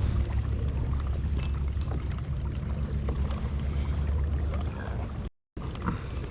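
Kayak under way on the water: a steady low rumble of water and wind noise, with scattered small clicks and splashes. The sound drops out for a moment about five seconds in.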